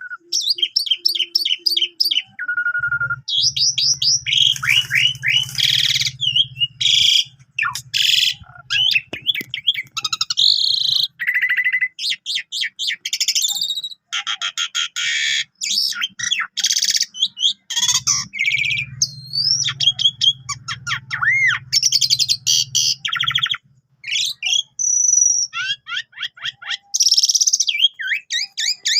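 Asian pied starling (jalak suren) singing a long, varied full song, fast trills, whistles and pitch glides mixed with harsh chattering notes, the kind of varied song used to tutor canaries. A low buzz runs underneath twice.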